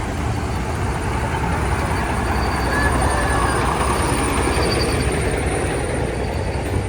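Farm tractors in a slow street parade, their diesel engines running with a steady low rumble.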